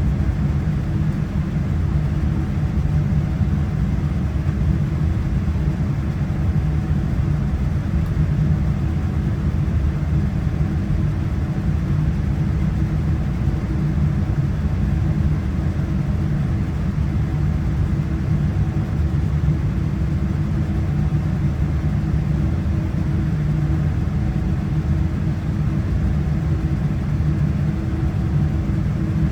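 Steady low rumble heard inside the cabin of a Boeing 787-9 airliner, with a constant hum from its Rolls-Royce Trent 1000 engines holding an even level.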